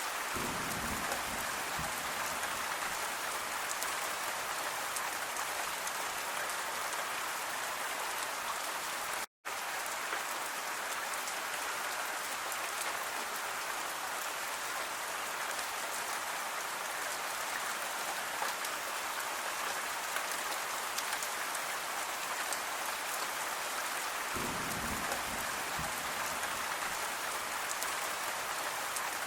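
Steady rain falling, an even hiss of drops. It cuts out for an instant about nine seconds in, and a low rumble joins it near the end.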